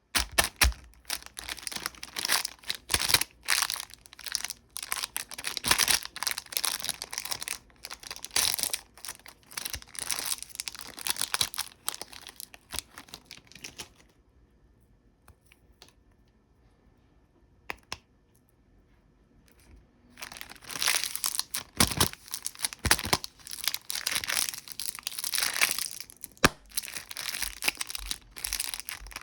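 Snack wrappers being crinkled and torn open close to the microphone, a dense run of crackling and rustling. It stops for a few seconds midway, apart from one click, then starts again.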